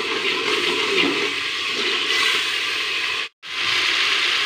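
Onion-tomato masala gravy sizzling and bubbling in oil in a metal pot while a spoon stirs it, a steady hiss. The sound cuts out abruptly for a moment about three seconds in, then resumes.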